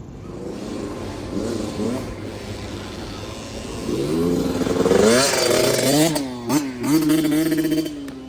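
Motocross bike engine revving: the pitch climbs steeply about four seconds in, holds high with a couple of quick dips, then drops and rises again at the end.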